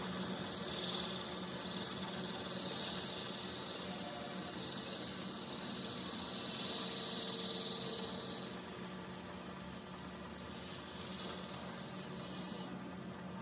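A steady high-pitched whistling whine that holds one pitch, steps up slightly about eight seconds in, and cuts out briefly near the end.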